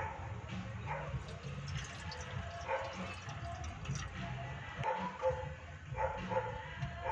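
A dog barking repeatedly, short barks a second or two apart, over a steady low rumble.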